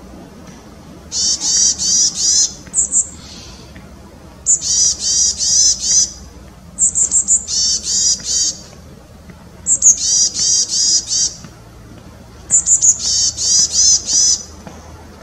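Chestnut-bellied tit singing the same phrase five times, about every three seconds. Each phrase is a few very high, thin notes followed by a quick run of four or five slurred, lower notes.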